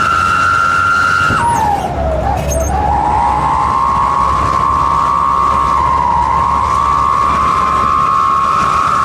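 Wolf-howl whistle exhaust ('knalpot serigala') giving a loud, steady, siren-like whistle. About a second and a half in its pitch slides down sharply, then climbs back and holds high again. A low engine rumble runs beneath it.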